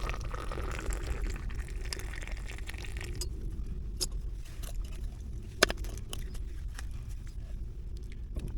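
Scattered crunching and clicking, with one sharp click about five and a half seconds in, over a low steady rumble.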